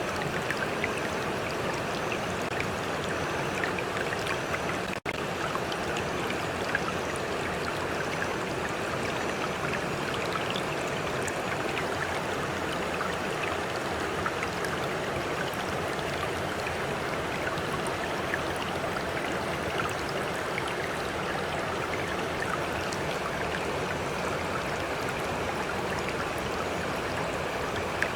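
Flowing stream: a steady rush of running water with small splashes and trickles, broken by a momentary dropout about five seconds in.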